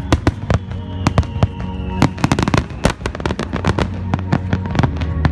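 A barrage of aerial firework shells bursting in rapid succession: a dense, irregular string of booms and crackles. Music plays underneath.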